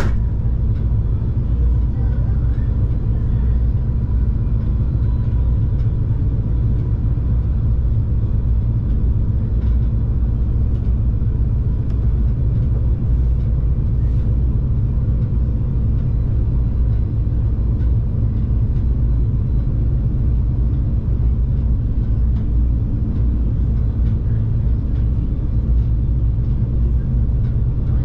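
Stadler GTW diesel multiple unit running at speed, heard inside the passenger cabin: a steady low rumble from the diesel engine and the wheels on the rails, with a constant hum over it.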